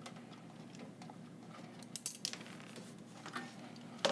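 A few light metallic clicks and clinks from small hand tools and connector parts being handled, with a cluster about two seconds in.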